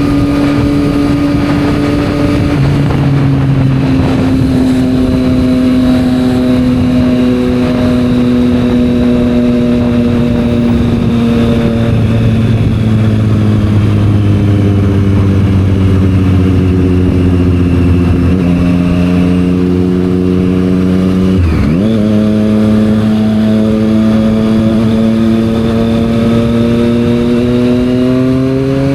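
Triumph Street Triple 765 R's inline three-cylinder engine through a Yoshimura aftermarket exhaust, pulling steadily with the engine note slowly falling in pitch. About two-thirds through the note drops sharply and recovers, then climbs again near the end.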